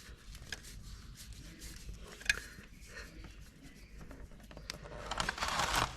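Small clicks and scrapes of a motorcycle oil filter being worked loose by hand, then, about five seconds in, engine oil pouring from around the filter into a drain pan for about a second.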